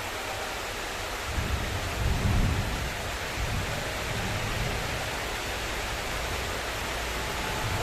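Heavy rain pouring steadily, with a low rumble of thunder that swells about a second in, peaks and fades a couple of seconds later.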